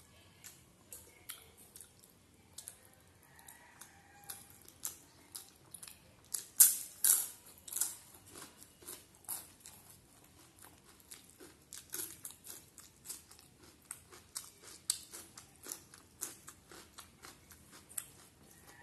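A person chewing crunchy food close to the microphone: a long run of crisp crunches and mouth sounds, loudest about six to eight seconds in.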